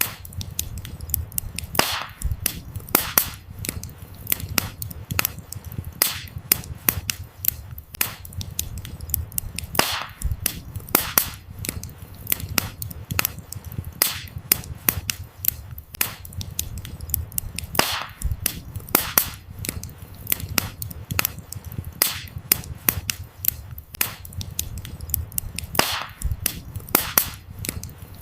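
Burning firewood crackling: irregular sharp pops and snaps, several a second, some much louder than others, over a steady low rumble of the fire.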